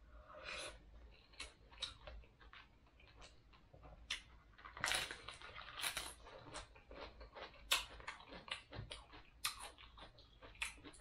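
A person chewing and crunching crispy fried food, close up, with irregular crunches and mouth sounds at uneven intervals, a few of them louder.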